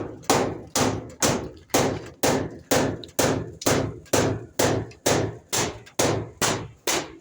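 Hammer striking steadily and evenly, about two blows a second, each blow a sharp knock with a short ring, during gutter installation.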